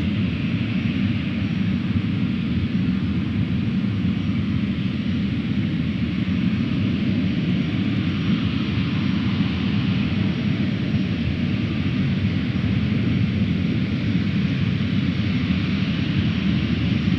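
Jet airliner engines, a steady deep rumble with a hiss above it.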